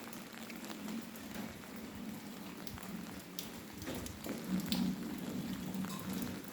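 Steady rain falling, with many scattered drops ticking sharply.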